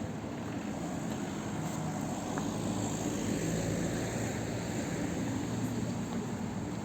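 A steady engine drone that grows a little louder in the middle, heard over outdoor background noise.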